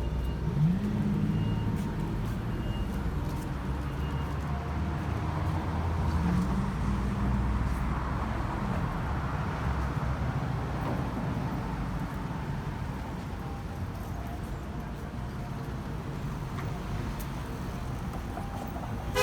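City street traffic: cars and trucks running past in a steady rumble, with one vehicle passing more loudly around the middle. A short horn toot comes right at the end.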